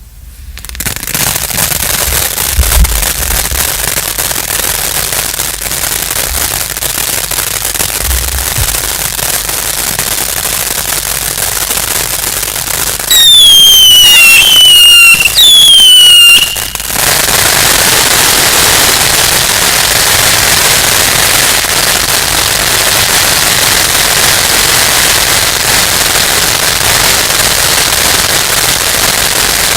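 A fireworks battery firing, with dense continuous crackling. About halfway through, three loud whistles fall in pitch one after another, then the crackling carries on.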